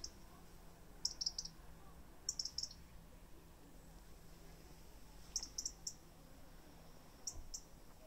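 A small bird chirping: short, very high chirps in quick clusters of two to four, repeating every second or two. The chirps are faint, over a low steady hum.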